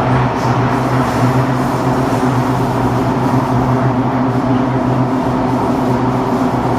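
KSF CT251 metro train running at speed, heard from inside the car: a loud, steady rumble of wheels on rail with a constant low hum. The train's wheels are flatted, which the uploader calls "earthquake flat wheels".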